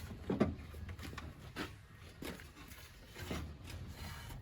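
A few light metallic clicks and knocks, four or so spread over a few seconds, from the parking-brake pedal assembly being worked by hand now that its springs are working again.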